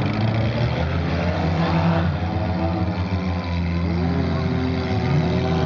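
Four-cylinder demolition derby cars' engines running and revving, their pitch rising and falling several times over a steady low drone.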